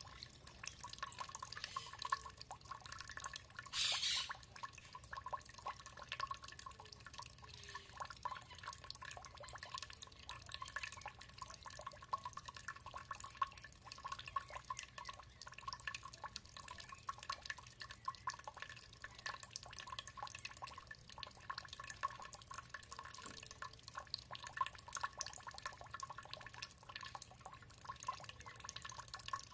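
Water dripping and trickling: many small, irregular drips. There is a brief louder hiss about four seconds in.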